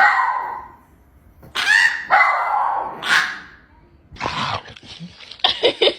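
A dog making a run of vocal noises: several separate calls, some lasting about a second, with a quicker cluster of short ones near the end.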